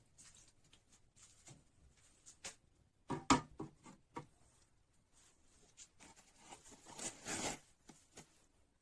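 Workshop handling noise from restoring a rusty wrench: scattered light clicks, a cluster of knocks about three seconds in, and a short rubbing scrape around seven seconds in.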